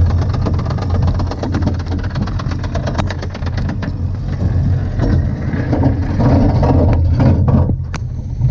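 Bobsled roller coaster train clicking rapidly up its chain lift, about ten clicks a second. The clicking stops about three seconds in, and the train rolls on with a steady low rumble and rushing wind on the microphone.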